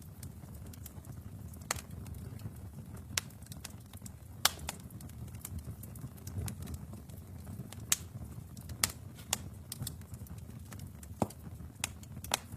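Wood fire burning in a fireplace: a steady low rumble with sharp pops and crackles at irregular intervals, roughly one every second.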